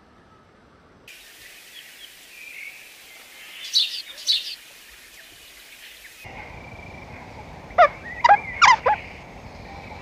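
Bird calls over a faint outdoor background that changes abruptly twice: two short, sharp calls about four seconds in, then a group of loud calls that sweep steeply down in pitch near the end.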